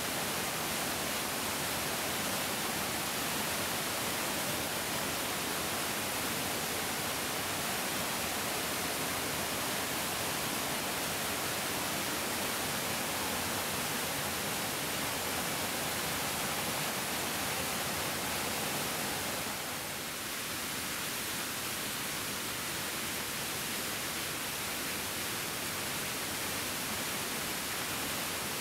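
A bigger mountain stream flowing: a steady, even rush of water that thins slightly about two-thirds of the way through.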